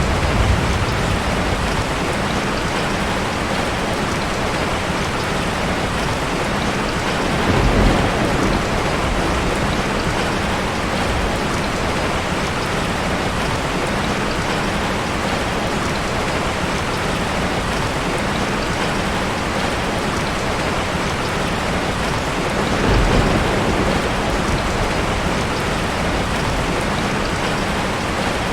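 Steady rain, a dense even hiss, with two brief low rumbles of thunder, about eight seconds in and again about twenty-three seconds in.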